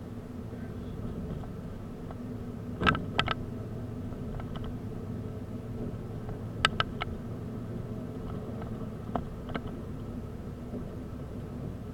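A 1964 Lincoln running steadily on the road, its engine and road noise making a low, even drone. Several sharp knocks or rattles come in small clusters about three, seven and nine seconds in.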